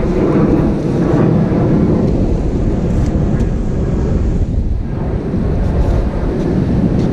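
Strong wind buffeting the microphone: a steady, loud low rumble and rush.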